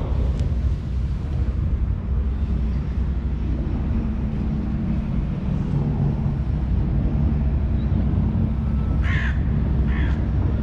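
Steady low rumble with a faint hum throughout, and near the end two short, harsh caws from a bird.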